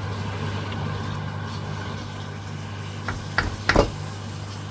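A steady low mechanical hum, with three short knocks a little after three seconds in, the last two the loudest.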